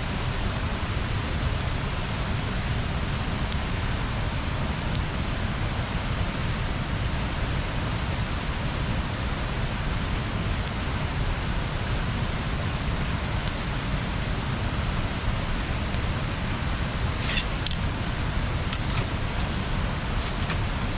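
Wood bonfire burning: a steady rushing noise with a heavy low rumble, a few faint ticks, then a run of sharp crackles and pops in the last few seconds.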